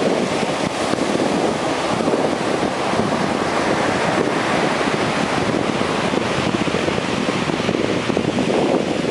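Heavy ocean surf breaking on a beach in strong storm wind, a steady loud wash with wind buffeting the microphone.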